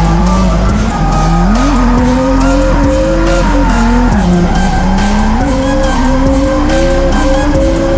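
Drift car engine revving up and down as it slides through a drift, with tyres squealing and music playing underneath.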